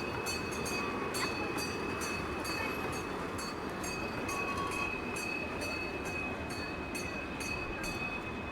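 Amusement-park children's train ride running along its track: steady rumble with sharp clicks a few times a second as the wheels pass the rail joints, and a steady high whine over it.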